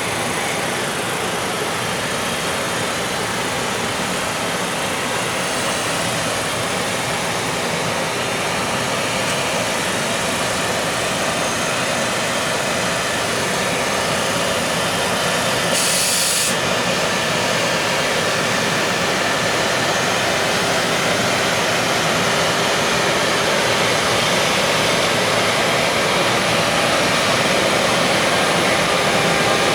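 Container freight train hauled by an EF510 electric locomotive pulling away from the station, with a steady running noise that slowly grows louder. A short hiss comes about halfway, and a faint rising whine near the end.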